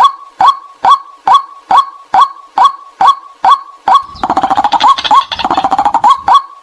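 White-breasted waterhen calling: a steady run of short, clipped notes, about two a second. About four seconds in, two seconds of fast, dense chattering break in before the steady notes resume.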